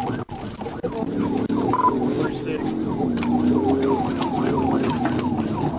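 Police siren on a rapid yelp, sweeping about three times a second, with the pursuing car's engine running steadily under it.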